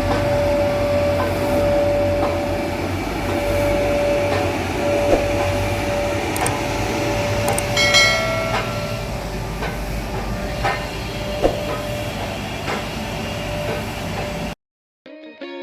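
Train running, a steady rumble with a faint steady whine and scattered knocks, and a brief shrill sound of several pitches about eight seconds in. The sound cuts off suddenly near the end.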